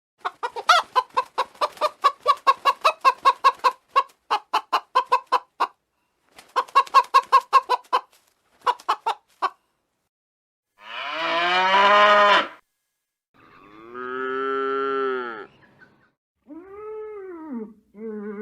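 A hen clucking in fast runs of short clucks, about five a second, with short pauses. Then cattle mooing: three long calls, the last one rising and falling in pitch.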